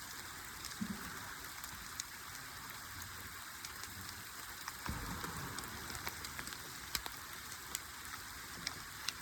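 Steady rain falling: an even hiss with scattered sharp taps of single drops.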